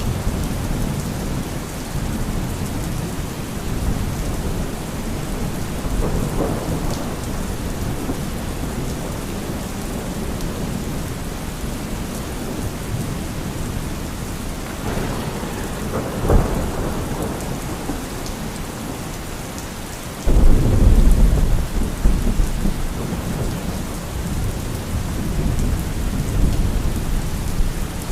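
Thunderstorm: steady heavy rain with thunder rumbling several times, a sharp crack about halfway through, and a loud low rumble that starts suddenly about two-thirds of the way in.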